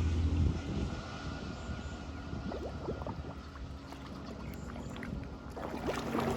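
Flood water running and gurgling through a cleared drain grate, with wind on the microphone.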